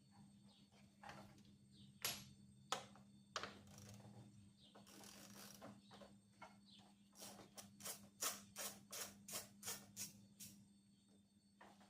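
Ratchet wrench clicking in a quick run of short strokes, working a bolt loose, after a few separate knocks of metal tools.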